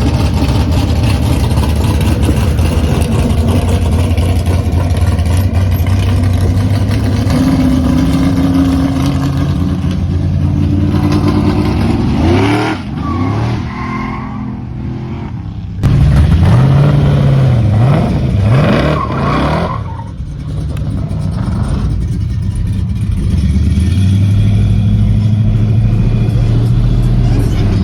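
Classic American car engines running loud and low as cars pull away, with the throttle blipped a few times. About halfway through it gets suddenly louder, with several quick revs rising and falling.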